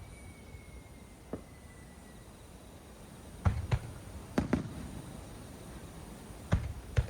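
Aerial fireworks shells bursting: about seven sharp bangs, several in quick pairs, over a low rumble. A faint whistle sliding down in pitch fades out in the first two seconds.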